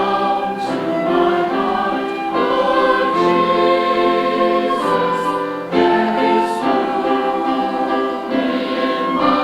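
Church choir singing in full harmony, holding chords that shift every second or two, with sung 's' sounds audible now and then.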